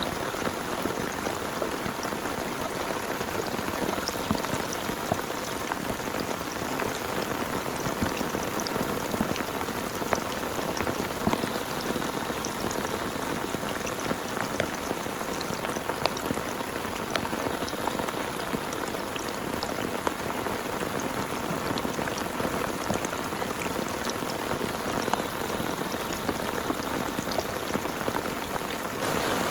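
Heavy rain falling steadily, a dense hiss dotted with many separate drop hits.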